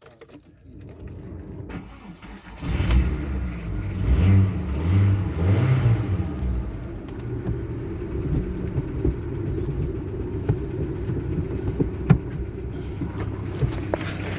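VW Golf 4's 1.4-litre AXP four-cylinder petrol engine starting up about three seconds in, revved three times, then settling to a steady idle.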